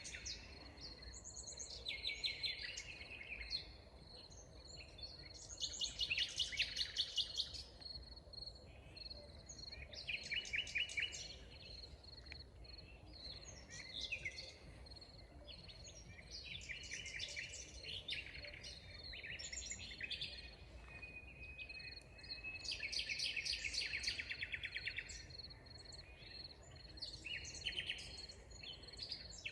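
Forest birds singing rapid trilled phrases every few seconds, the loudest about six seconds in and again near twenty-four seconds, over a steady high-pitched tone.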